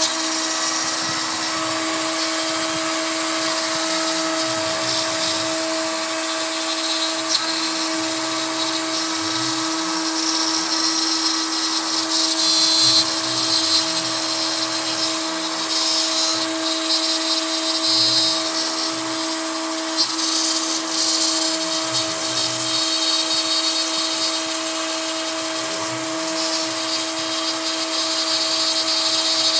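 CNC router's Kress spindle whining steadily as a 3 mm end mill cuts pine, the cutting noise swelling and easing from about twelve seconds in as the tool moves through the wood.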